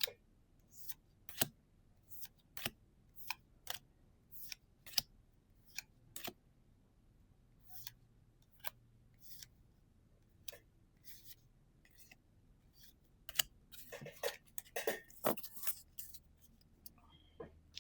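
Pokémon trading cards being handled and flipped through one at a time: a series of sharp card snaps and clicks, about one a second, growing busier with some rustling near the end.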